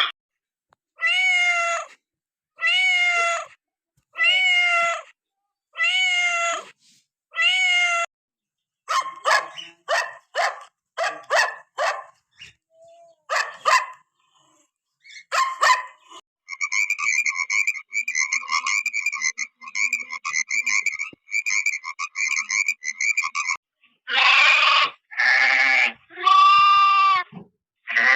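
A series of animal calls: five drawn-out pitched cries about a second and a half apart, then a string of short, sharp calls, then about seven seconds of fast, continuous chattering, and near the end a few longer, wavering cries.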